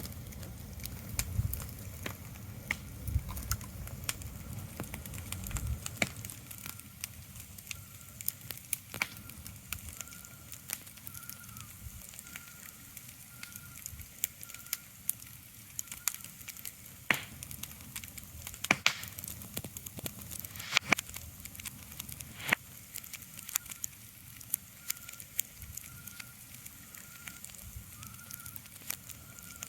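Ambient crackling: irregular sharp pops and snaps over a soft steady hiss, with a faint short high chirp repeating about once a second.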